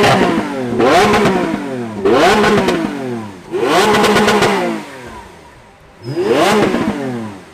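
A high-performance car engine being revved hard in repeated blips, each climbing quickly in pitch and falling back to idle. There are about four revs, with a longer pause before the last one.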